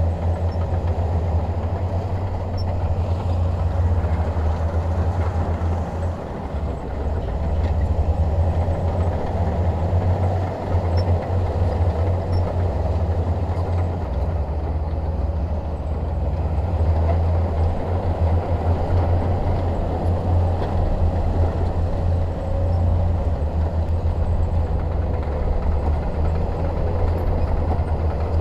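Bulldozer's heavy diesel engine running steadily at a low pitch, with a rough mechanical rumble over it.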